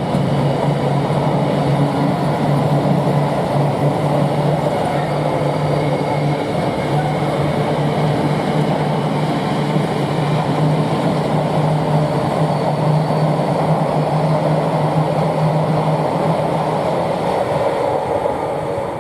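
Diesel-hauled freight train running past, with the continuous rumble of wagons on the rails. A steady low hum carries through most of it and fades out near the end while the rail noise goes on.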